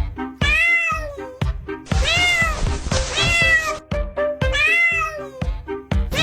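A cat meowing four times, each meow rising and then falling in pitch, over background music with a light repeating note pattern.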